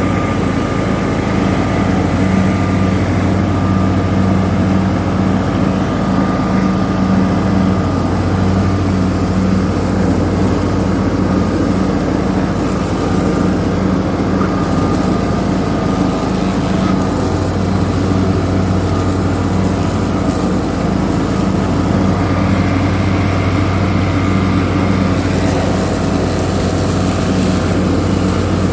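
Tractor engine running steadily while cutting grass, with an even, unbroken drone.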